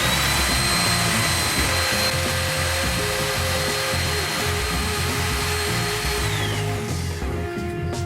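An electric power tool's motor runs up to speed with a high whine and a rush of noise, holds steady for about six seconds, then winds down near the end. Background music plays underneath.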